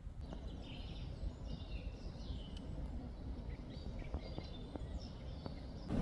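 Small birds chirping in short, scattered calls over a low, steady rumbling background, with a few faint ticks.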